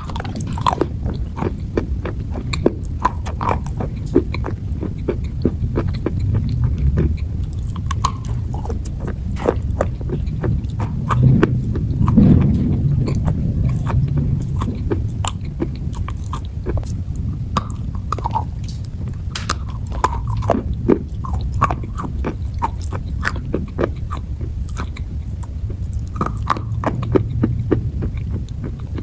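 Crunchy dried clay being bitten and chewed close to the microphone: a dense run of crisp, irregular crackles and snaps over a steady low hum.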